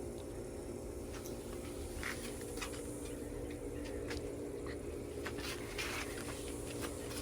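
Short, scratchy strokes of writing as messages are written on a truck, many brief scrapes coming unevenly, over a steady low hum.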